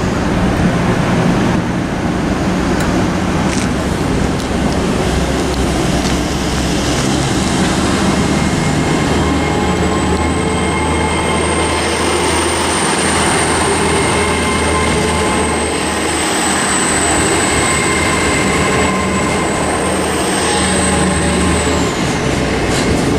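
A GWR Class 800/3 bi-mode intercity train pulling out under diesel power. Its underfloor engines run steadily, and a high thin whine comes in partway through and falls away near the end.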